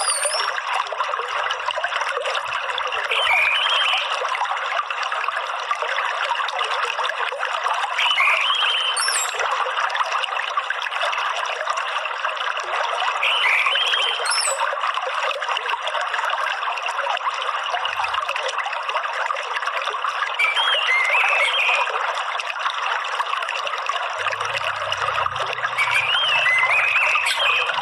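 Running water trickling steadily, with short chirped bird phrases breaking in every few seconds over it.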